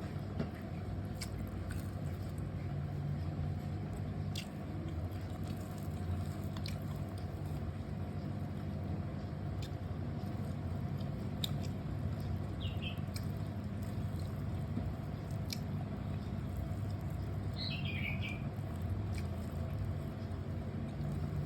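A person chewing and biting food with scattered soft clicks over a steady low hum, and a few brief high chirps in the latter half.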